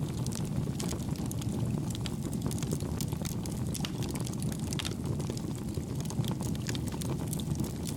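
Campfire burning: a steady low rumble of flames with many small, irregular crackles and pops, kept gentle rather than sharp.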